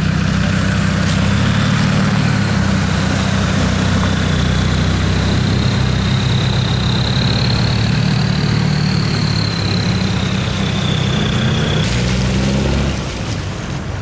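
Land Rover Discovery 2 TD5 diesel engine running steadily at low revs while driving slowly off-road. A thin high whine sits over it, rising a little and falling back, and cuts off about twelve seconds in. The engine note drops slightly a second later.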